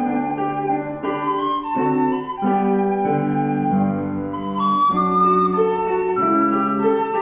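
Live classical music: a flute playing a melody of held notes over piano accompaniment, with a breath audible about four and a half seconds in.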